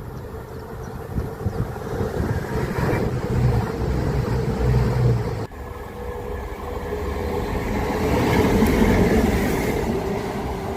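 A train running past on the rails. There is an abrupt break about halfway, then the sound swells to its loudest near the end.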